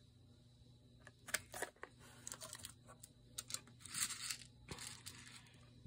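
Paper and craft supplies being handled at a desk: brief rustling and scraping with a few small clicks.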